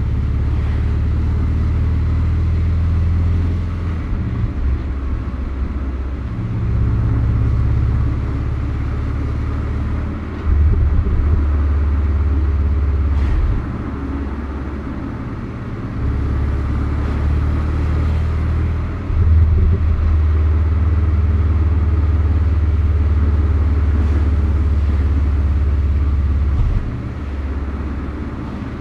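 Porsche 718 Boxster's 2.0-litre turbocharged flat-four and road noise while driving, a deep low rumble that steps louder and quieter every few seconds.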